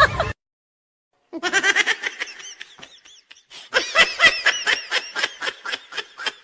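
High-pitched laughter, a fast run of short 'ha-ha' pulses, breaking in after a sudden cut to silence about a second in and fading toward the end.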